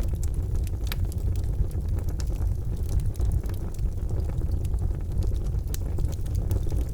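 Charcoal fire burning in a fireplace, with scattered sharp crackles and pops over a steady low rumble. One louder pop comes about a second in.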